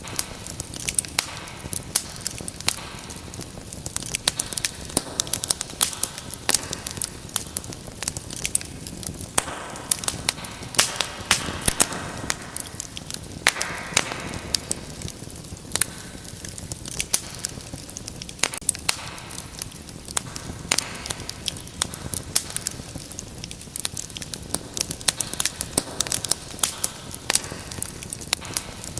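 Wood fire burning in a fireplace, crackling with many sharp irregular pops over a soft steady hiss.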